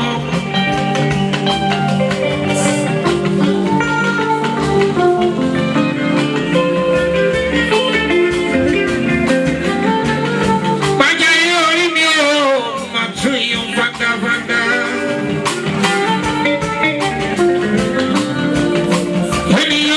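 Live fuji band music: held instrumental notes under a steady beat, with a singer's wavering voice coming in around the middle.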